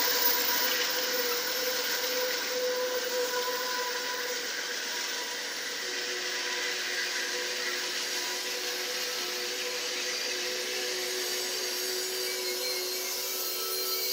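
A train passing: a steady rushing noise of wheels rolling on the rails, with faint steady squealing tones over it, a lower one joining about halfway through.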